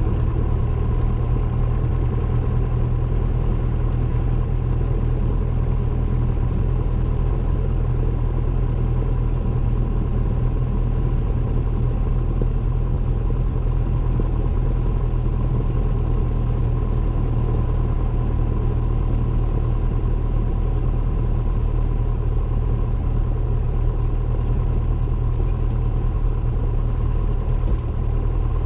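Cessna 172N's four-cylinder Lycoming engine and propeller running steadily, a deep, even drone heard inside the cabin, with a thin steady tone above it.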